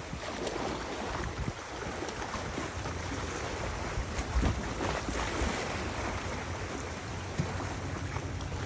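Steady rushing noise of wind and river water, with a few brief low buffets of wind hitting the microphone.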